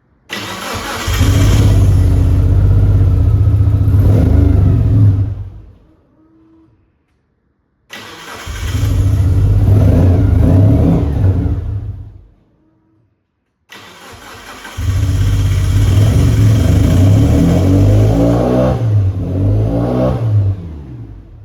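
The Mitsubishi Lancer Evolution IV's turbocharged 4G63 four-cylinder engine is cranked and catches three times, running for a few seconds each time before dying out: a fault that stops it starting and keeps it running. On the last attempt the engine note wavers up and down as it runs rough before cutting out.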